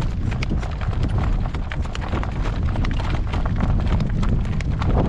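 A horse's shod hooves clip-clopping on the road as he pulls a cart, a quick, uneven run of hoofbeats over a steady low rumble.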